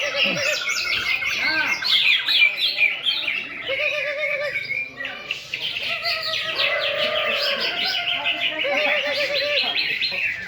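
Several caged green leafbirds (cucak ijo) singing at once, a dense, continuous tangle of fast warbles and trills, with repeated lower wavering notes mixed in.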